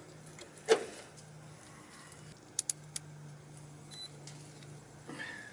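Trane XL14i condensing unit giving a faint low hum while its condenser fan motor stands still; the capacitor tests good, so the motor is taken for bad. A single knock comes just under a second in, and three sharp clicks follow about halfway through.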